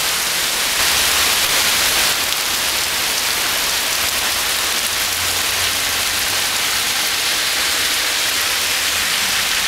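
Heavy rain pouring down onto a street and pavement: a steady, dense hiss of a downpour.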